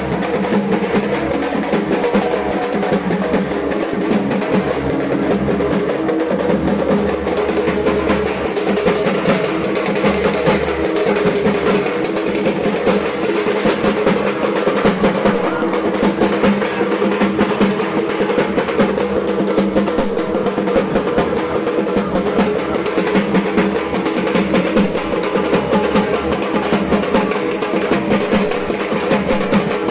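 Dhak, the Bengali double-headed barrel drum, beaten with thin sticks in a fast, dense roll that keeps going at an even loudness.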